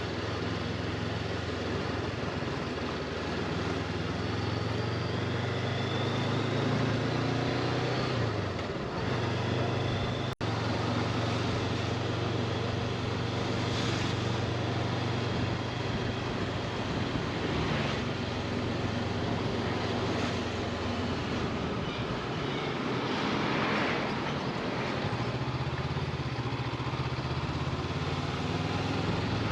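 Motorcycle engine running under way, steady with its note rising and falling a little as the revs change, over wind and road noise.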